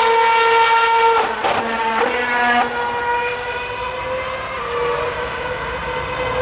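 Formula One car's 2.4-litre V8 engine running at high revs, a high-pitched engine note whose pitch shifts abruptly about a second in and twice more before it settles into a steadier, slightly quieter drone.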